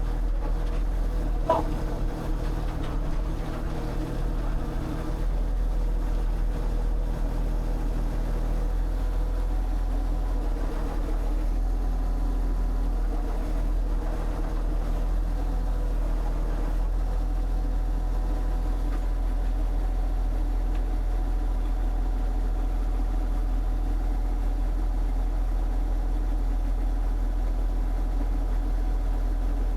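An engine running steadily at idle, a continuous low drone with a faint click about a second and a half in.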